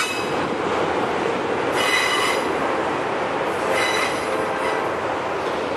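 Freight train of enclosed autorack cars rolling past: a steady rumble of steel wheels on rail, with short, high-pitched wheel squeals about two seconds in and again about four seconds in.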